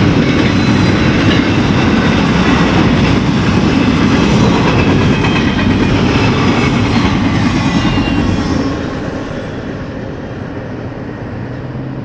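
BNSF double-stack intermodal freight train's well cars rolling past with a steady loud rumble. The rumble drops off sharply about eight or nine seconds in as the last car goes by.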